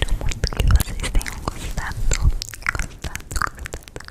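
Close-miked ASMR mouth sounds: rapid, irregular wet clicks and smacks.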